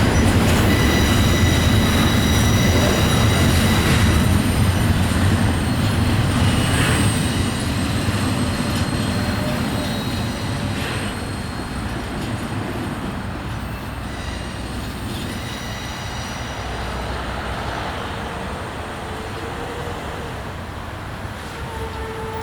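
Norfolk Southern intermodal freight train rolling past, its steel wheels squealing in thin, high, steady tones over a rumble. The sound slowly grows quieter over the second half.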